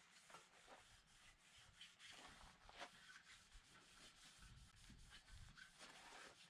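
Faint, irregular hand-rubbing strokes on the VW T3's lower front cooling plate, a metal panel being prepared for paint.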